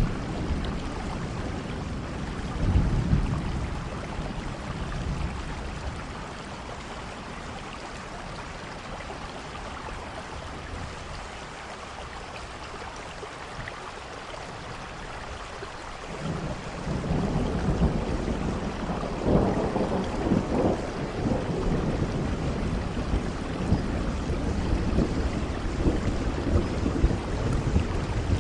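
Steady rain with thunder: a brief low rumble about three seconds in, a quieter stretch of rain, then a long, louder rumble of thunder that begins a little past halfway and carries on.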